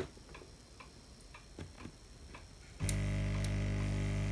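Faint regular ticking, about three or four ticks a second. About three seconds in, a Lukey 852D+ hot air rework station switches on with a sudden steady electric hum.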